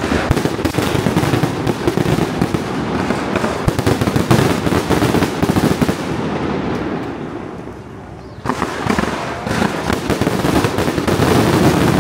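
Fireworks and firecrackers going off in a dense, rapid crackle, thinning out about six seconds in and bursting back in sharply about eight and a half seconds in.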